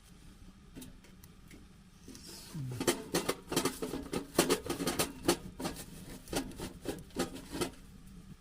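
A quick run of knocks and clatters, firewood being pushed and fitted into the firebox of a small Winnerwell Nomad camping stove. It starts about three seconds in and goes on for some five seconds, about two or three knocks a second, before stopping.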